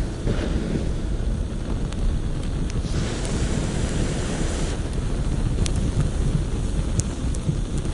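A large fire burning with a steady deep rushing and a few sharp crackles in the second half.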